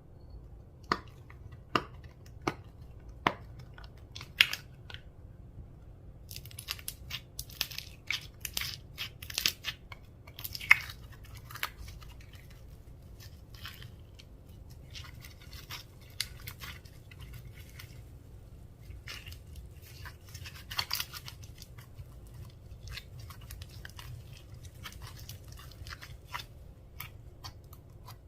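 Slime being pressed, stretched and mixed by hand, making sticky crackling and popping. A few sharp single clicks come near the start, and denser spells of crackling follow.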